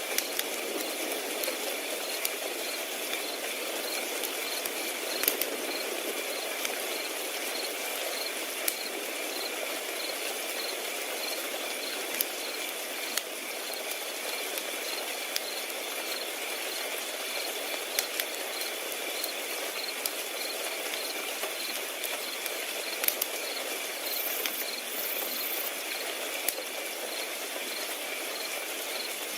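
Crickets chirping in a steady, even rhythm over a continuous high trill, with a wood fire crackling: a soft hiss broken by scattered sharp pops and snaps.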